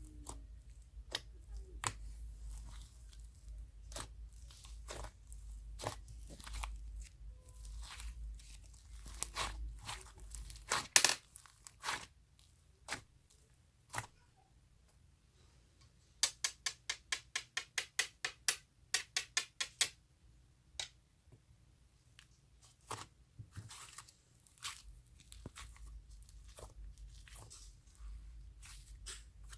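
Butter glitter slime being squeezed, poked and stretched by hand: scattered sticky clicks and short crackling tears, with a quick run of clicks, about five a second, for a few seconds past the middle.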